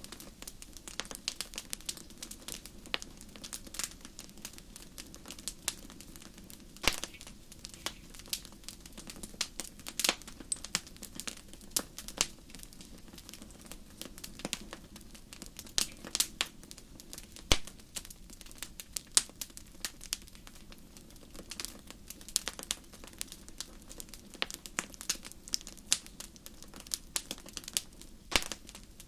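Wood fire in a fireplace crackling, with irregular sharp pops and snaps, some louder than others, over a low steady hiss of the flames.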